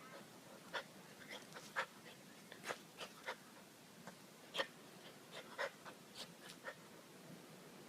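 A Bull Terrier scuffling with a crab on the ground: about fifteen short, sharp clicks and scratches at irregular intervals, fairly faint.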